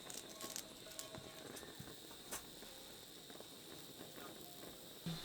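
Quiet background with a few faint, short clicks and light knocks, three in the first second and one more a little past two seconds.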